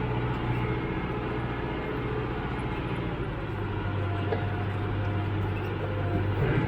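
Tractor engine running steadily, its note dropping to a lower pitch about halfway through and picking up again near the end.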